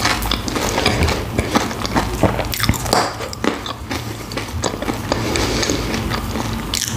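Biting into and chewing a hot sandwich, with repeated crisp crunches and wet mouth sounds.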